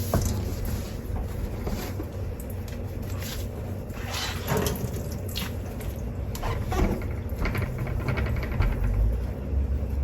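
Dishes being washed by hand under a running tap: a steady sound of running water, with dishes and utensils knocking and clinking against each other and the sink now and then.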